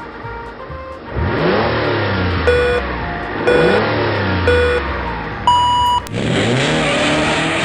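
Race-start countdown over a car engine revving: three short lower beeps about a second apart, then one longer, higher beep, after which the engine revs up again.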